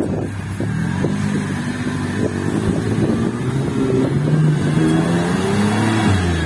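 Off-road vehicle engine revving under load, its pitch rising and falling and climbing toward the end, then cutting off abruptly.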